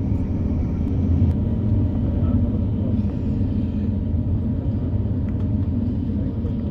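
Steady low cabin rumble inside an Airbus A350-900 taxiing after landing, with no breaks or sudden sounds.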